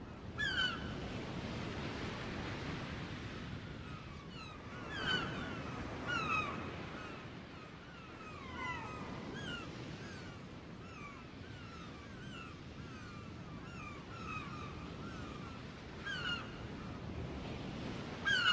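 Birds calling: many short, falling calls repeat throughout, sometimes several close together, over a steady low background noise.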